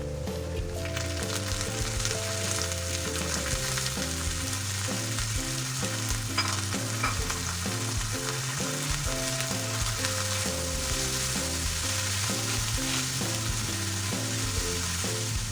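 Shrimp paste and garlic sizzling in a frying pan as they are sautéed and stirred, a steady frying hiss.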